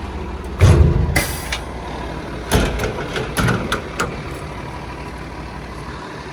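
Hino 338's 7.6-liter turbo diesel idling steadily. About a second in there is a loud clatter followed by a short hiss, and then a few separate knocks and clunks over the next few seconds, as of metal compartment hardware being handled.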